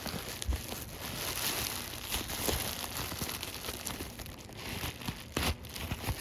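Thick plastic bubble wrap crinkling and rustling as it is pulled and cut away from a boxed model train, with a few small knocks of handling.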